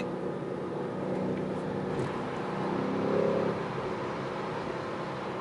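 BMW M8 Competition's 4.4-litre twin-turbo V8 running steadily under way, with road noise, and a brief light swell in engine note about three seconds in.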